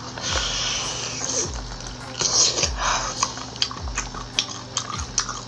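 A person biting into and chewing a large spicy braised cuttlefish, with wet, crackly mouth sounds and low thuds about once a second.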